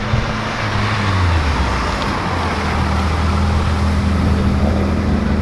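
A car engine idling steadily. Its low hum drops slightly in pitch about a second in, over a general hiss of background noise.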